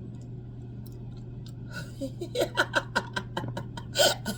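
A steady low hum of room tone, then about halfway in a person's voice making sounds without clear words, growing louder near the end.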